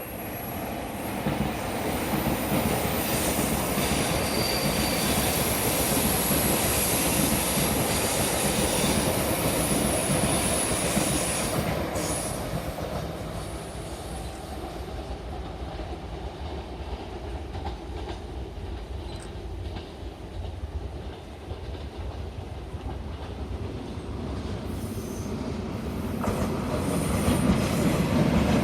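A TRA Taroko Express tilting electric train (TEMU1000) running past, its wheels rumbling and clattering on the rails, then fading. Near the end, a second electric train, an EMU800 commuter set, draws near and the rail noise rises again.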